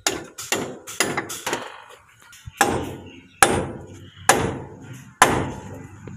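About eight hammer blows on the parts of a JCB front wheel hub assembly, the first four quick, the rest about a second apart.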